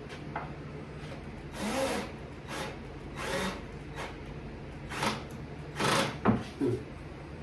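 Cordless drill/driver run in about five short bursts, each under half a second, over a steady low hum. Moments later the drill is judged burnt up and is smoking, so the motor is failing.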